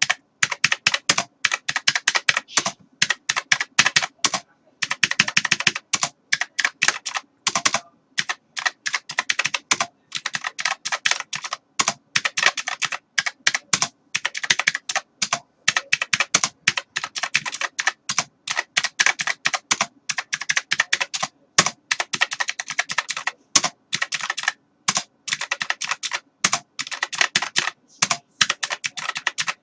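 Typing on a computer keyboard: a fast, uneven stream of key clicks broken by short pauses.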